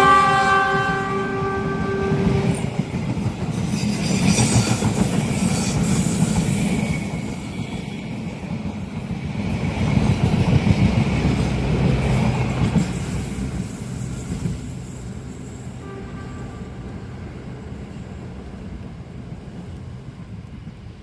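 Train horn sounding for about two and a half seconds at the start, then a train passing with a steady rumble and clatter of wheels on rail that fades away after about 13 seconds.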